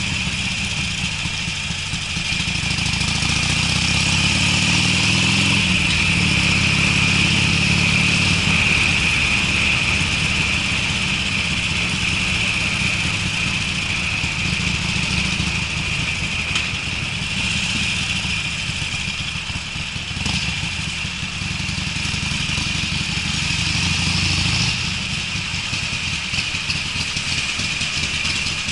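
Harley-Davidson Sportster V-twin running through Screamin' Eagle mufflers while being ridden, a low, deep exhaust note that rises in pitch a few seconds in as the bike accelerates. A steady hiss runs alongside it.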